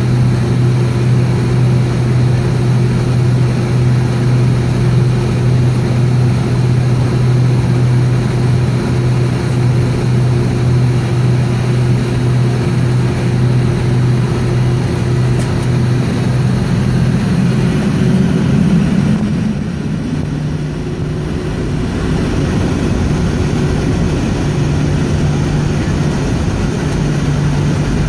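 Boeing 757's Pratt & Whitney PW2037 engines at low taxi power, heard inside the cabin as a steady low drone with a constant hum. About two-thirds of the way through, the hum rises briefly, then the drone eases a little quieter and settles again.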